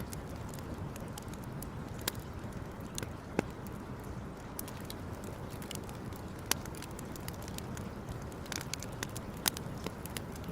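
Wood campfire crackling: irregular sharp pops and snaps over a steady low rush, with a few louder pops scattered through.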